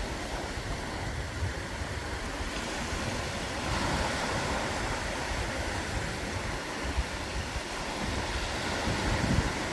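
Ocean waves breaking and washing up on a beach, a steady rush of surf that swells a little a few seconds in, with low gusts of wind buffeting the microphone.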